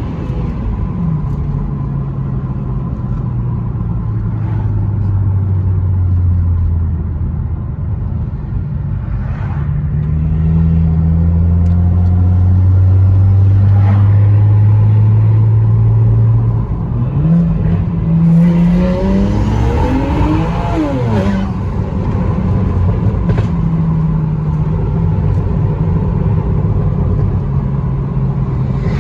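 BMW 335i's N54 twin-turbo straight-six running under way with a rolling misfire. Its revs drop near the start, hold steady for a long stretch, then climb for a few seconds past the middle and fall back.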